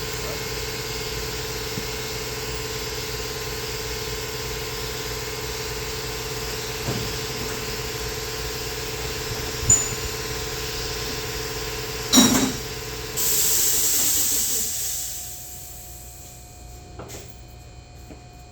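A shop machine running with a steady hum, broken by a click and then a clunk. About thirteen seconds in it stops with a loud hiss of released air that fades out over a couple of seconds.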